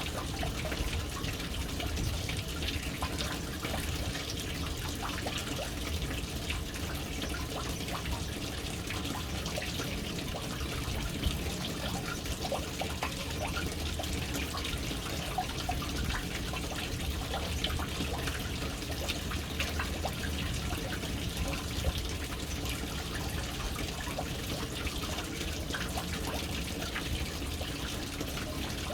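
Water falling steadily into a household water tank from its float-valve inlet, an unbroken splashing trickle with many small drips.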